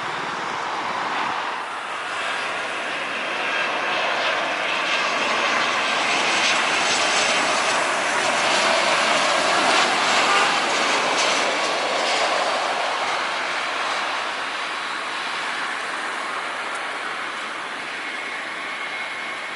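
Jet airliner on its landing approach passing the runway: a broad engine roar that swells to its loudest about halfway through and then fades away.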